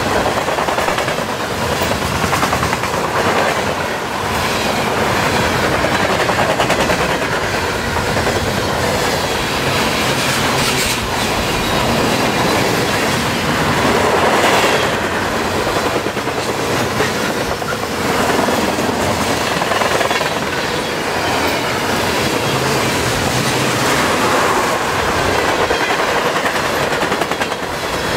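Freight cars of a long CN mixed freight train (tank cars, a centerbeam lumber car, covered hoppers) rolling past at about 49 mph. Steady rumble of steel wheels on rail, with a continual run of clacks as the wheels pass.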